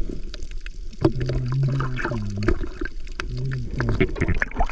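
Water gurgling and sloshing over the microphone, heard underwater while diving, with scattered sharp clicks and a low droning tone that dips in pitch now and then.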